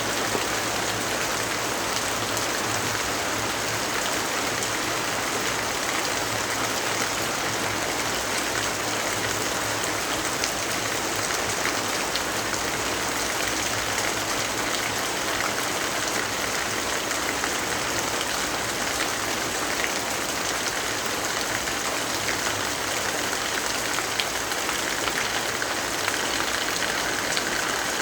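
Steady rainfall: a dense, even hiss of rain with scattered small ticks of drops.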